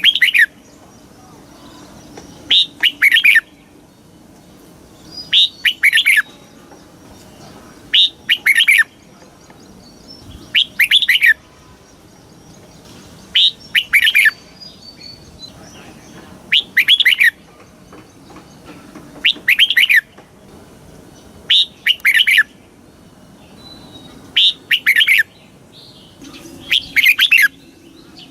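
Red-whiskered bulbul singing: a short, loud, warbling phrase under a second long, repeated about every two and a half seconds.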